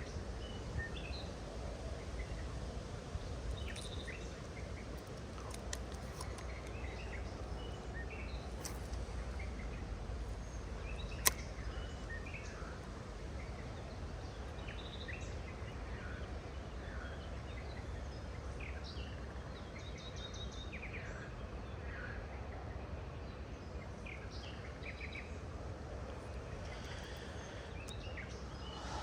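Several birds chirping and calling in short, scattered notes over a steady low rumble, with one sharp click about eleven seconds in.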